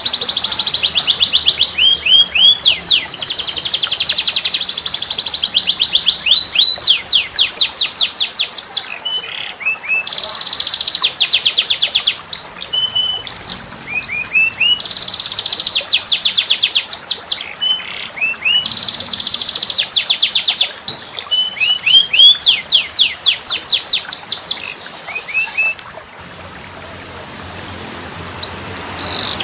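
Small songbird singing: loud bursts of very fast, high trills of repeated sweeping notes, each burst one to two seconds long, broken up by short separate chirps, falling quiet near the end.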